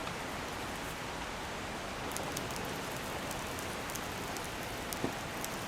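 Clear mountain stream flowing over rocks in a steady, even rush, with a few faint scattered clicks on top.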